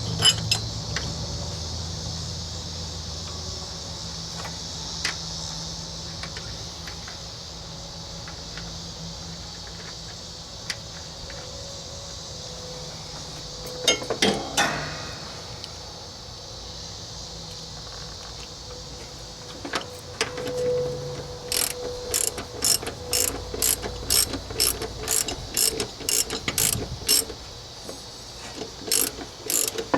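Ratchet wrench clicking in an even run of about two to three clicks a second through the second half, tightening the lock nut on a newly fitted mower idler pulley. A few scattered metal clicks and a short clatter of metal parts come before, about halfway through.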